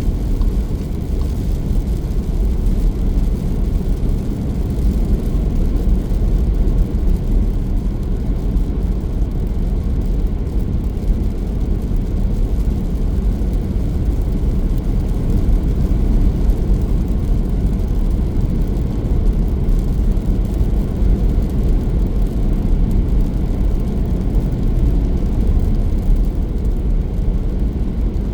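Car driving along a road: a steady low rumble of engine and tyres that holds even throughout.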